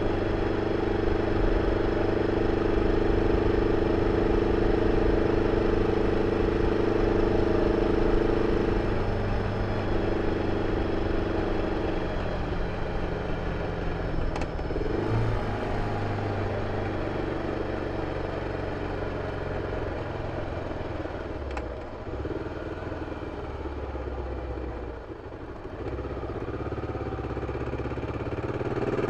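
BMW F 650 CS motorcycle's single-cylinder engine running through its original exhaust. The note holds steady for the first ten seconds or so, then turns weaker and uneven with a dip about 25 seconds in, and steadies again near the end.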